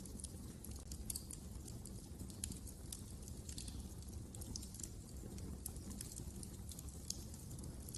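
Fire burning in a fireplace, crackling with irregular sharp pops over a steady low rumble of the flames.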